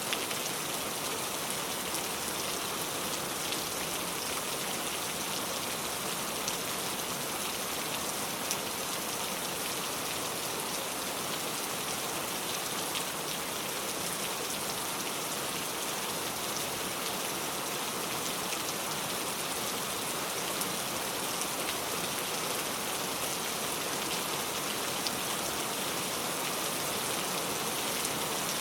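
Steady rain falling on a car, an even hiss with scattered individual drops ticking on the body.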